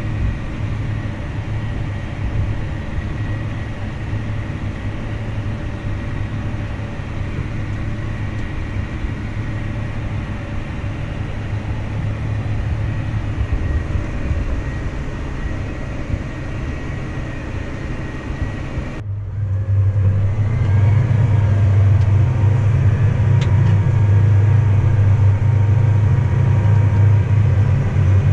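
Farm machinery's engine running at a steady low drone. About two-thirds of the way through it breaks off abruptly, then returns louder with a steadier hum and a faint higher whine.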